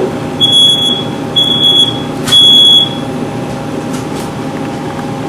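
Smoke alarm beeping three times, each a high steady tone about half a second long: the three-beep fire alarm pattern, set off by cooking smoke.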